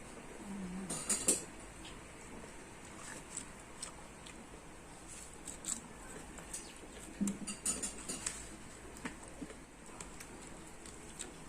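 Close eating sounds: irregular small smacks and clicks of chewing and mouthing food, with clusters about a second in and again around seven to eight seconds.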